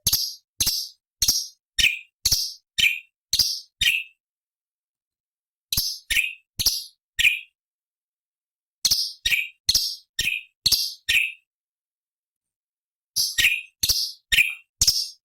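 Orange-bellied leafbird (cucak cungkok) giving short, sharp, high calls, each dropping in pitch. The calls come about two a second in bursts of four to eight, with a silent pause of about one and a half to two seconds between bursts.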